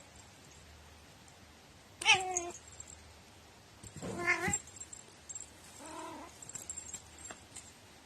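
Domestic cat meowing three times with odd, peculiar-sounding meows. The first meow, about two seconds in, is the loudest; the last is the faintest.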